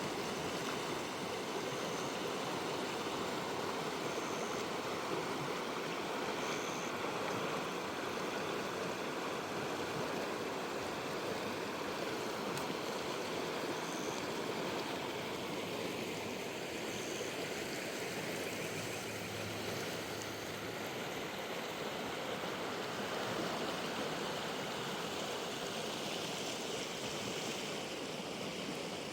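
Wild river water rushing steadily over rocks, an even rushing noise, with a few brief faint high peeps above it.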